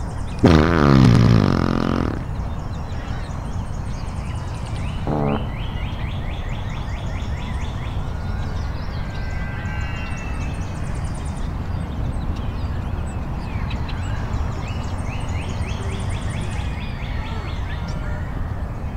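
Birds chirping and trilling over a steady low outdoor rumble. About half a second in, a loud pitched sound slides steeply down for over a second. A shorter pitched sound follows about five seconds in.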